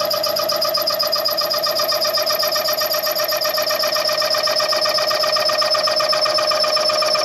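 Metal-cutting tool machining the rear main seal bore of a Chevy 400 small-block, chattering: a steady, high-pitched ringing with a fast, even pulse. The chatter comes from too little rake and no clearance on the back of the cutter.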